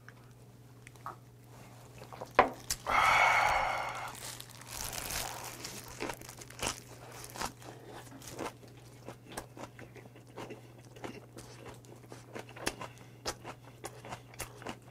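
Close-up chewing of a raw-oyster bossam wrap: boiled pork and oysters in salted napa cabbage, crunching in small wet clicks at about two a second. A short breathy rush of noise comes about three seconds in. A steady low hum runs underneath.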